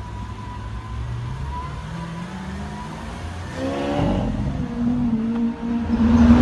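Supercar engines in slow street traffic: a low rumble, then a short rev that rises in pitch about three and a half seconds in, and an engine growing steadily louder near the end as a car comes closer.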